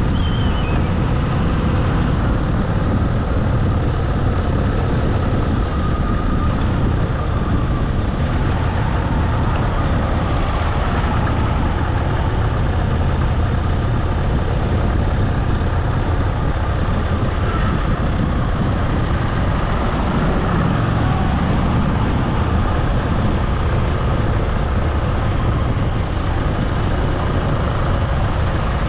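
Motorcycle engine running steadily under way, with continuous road and rushing-air noise.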